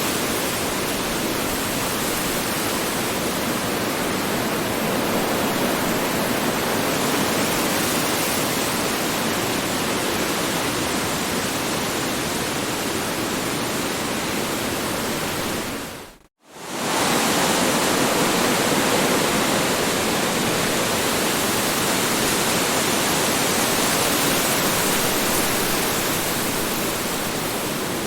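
Strong wind blowing steadily, a continuous rushing noise. About 16 seconds in it dips to silence for a moment and swells straight back, a seam where the recording loops.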